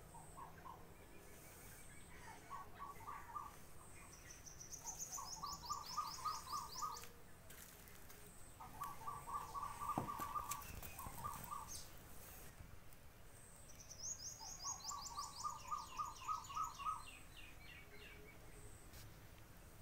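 Wild birds calling: one bird repeats quick runs of clipped, evenly spaced notes at a middle pitch, several times over, while another gives high, falling trills twice. A single faint tap comes about halfway through.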